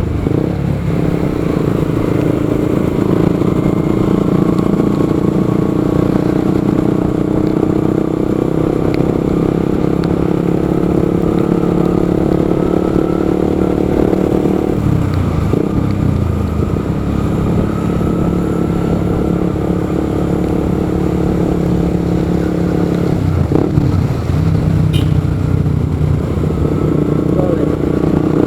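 Motorcycle engine running steadily while riding in traffic; the engine note shifts about halfway through and again near the end.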